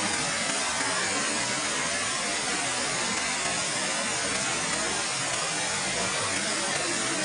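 Bu Sra Waterfall's water falling and rushing, a steady, even roar of noise with no change.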